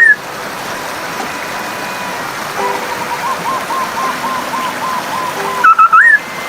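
Birds calling over a steadily running stream: a run of about ten short, evenly repeated notes in the middle, then a loud warbling call that rises in pitch near the end.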